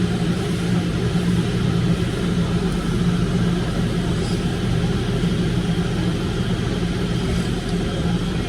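Car engine idling: a steady low hum that holds unchanged throughout.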